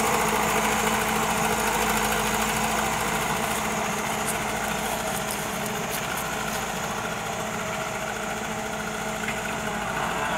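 Diesel engine of a JCB backhoe loader running steadily, growing slowly a little quieter.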